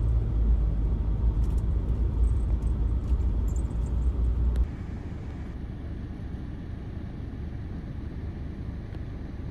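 Vehicle driving through deep snow, heard from inside the cab: a low engine and road rumble with a few faint clicks. About four and a half seconds in, the rumble drops suddenly to a quieter steady hiss.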